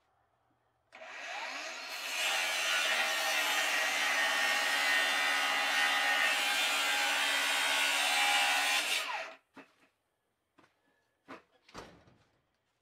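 Electric power saw cutting through a wooden board: the motor starts about a second in, the sound gets louder as the blade bites into the wood, and it cuts off suddenly after about eight seconds. A few short knocks follow near the end.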